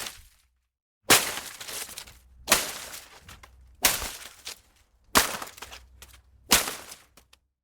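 Foliage being struck: five sharp whacks about a second and a half apart, each followed by a short rustling decay of leaves, with a few small ticks near the end.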